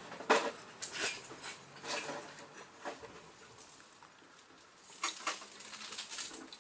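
Hand tools and small metal parts being handled on an engine: a scattered run of short clicks and clinks, busy in the first three seconds, then a lull, then more around five to six seconds in.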